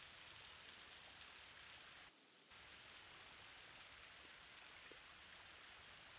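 Near silence: a faint, steady hiss that dips briefly about two seconds in.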